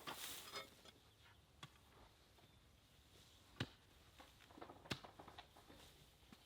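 Near silence broken by a few faint, sharp clicks or knocks, three of them spaced a second or more apart.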